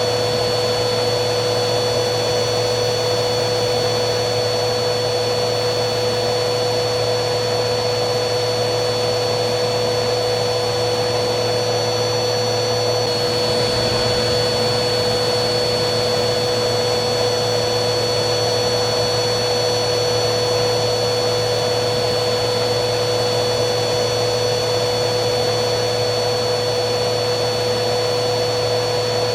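Vacuum cleaner running steadily: an even rushing noise with a constant motor hum and a high whine that steps slightly in pitch about 13 seconds in.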